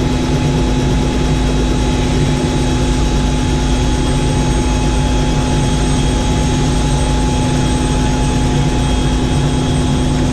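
Helicopter in flight, its engine and rotors running steadily: a constant loud drone with steady whining tones through it.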